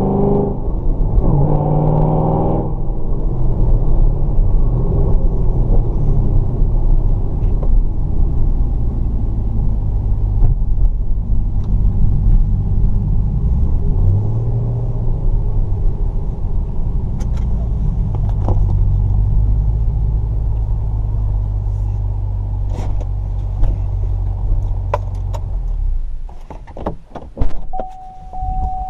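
2012 Chevrolet Camaro ZL1's supercharged LSA V8, tuned to 730 horsepower, heard from inside the cabin. It revs up at the start, then settles into a steady low rumble with one short blip of revs about halfway. About three seconds before the end the engine cuts off, followed by a few clicks and then a steady single-tone chime.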